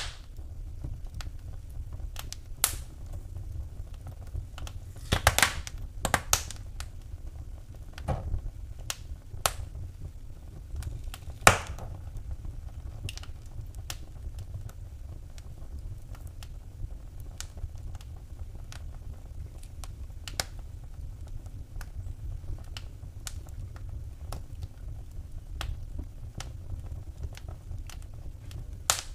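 Wood fire burning in a fireplace, crackling with irregular sharp pops over a steady low rumble; a cluster of louder pops comes about five seconds in and a single loud snap near the middle.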